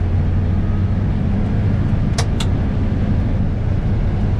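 Combine harvester running at full throttle while cutting wheat: a steady low engine and machine drone. Two sharp clicks come about two seconds in, a fraction of a second apart.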